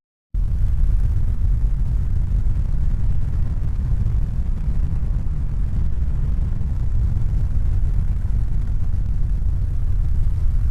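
A steady, deep rumbling noise with no distinct tones or beats. It starts abruptly just after the beginning and fades out at the end.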